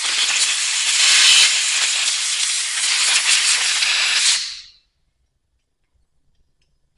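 Compressed-air blow gun hissing in one long blast of about four and a half seconds, blowing out a freshly cleaned carburetor, then cutting off.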